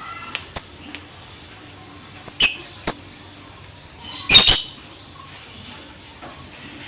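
Lovebird giving short, sharp, high-pitched chirps: single calls spaced apart and a louder quick cluster about four seconds in.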